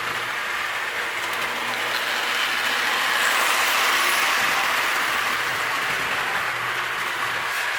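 Marx Wm. Crooks toy train running on 3-rail O-27 track: a steady clattering rattle of the electric motor and wheels on the rails, growing a little louder around the middle and easing off again.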